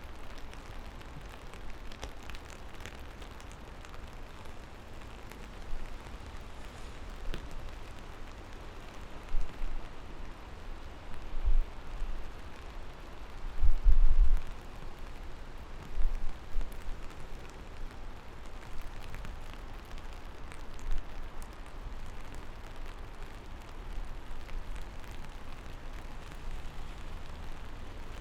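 Steady rain falling, with a few deep thuds scattered through it. The loudest thud comes about halfway through.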